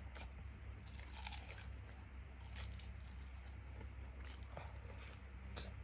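Crunching and chewing of crispy Japanese fried chicken (karaage): a cluster of crackly crunches about a second in, then scattered single crunches, over a steady low hum.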